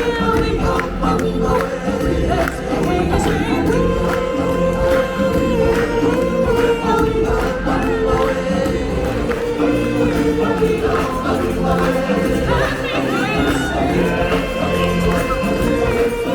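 Live stage-show music: a choir of singers performing a song over full instrumental backing.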